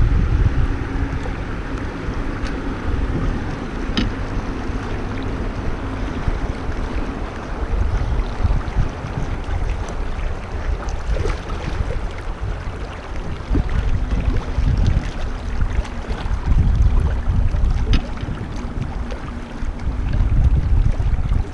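Wind buffeting the microphone in gusts over a steady rush of river water around a kayak, with a few faint ticks.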